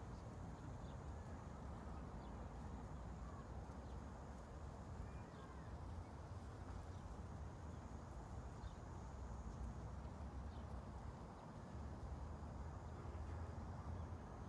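Steady low ambient noise, a rumble-and-hiss with most of its weight in the bass, with a few faint short high chirps and ticks scattered through it.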